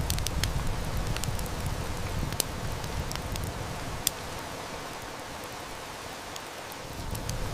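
Steady heavy rain hiss mixed with a wood fire crackling: scattered sharp snaps and pops, the loudest about four seconds in, over a low rumble that eases off about halfway through.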